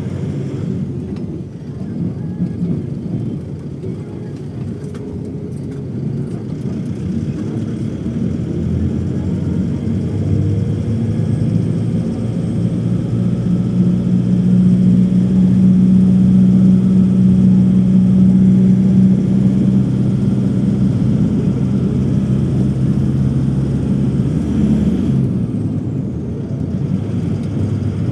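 Steady engine drone of a vehicle, with two steady low hum tones that grow louder for several seconds in the middle and ease off near the end.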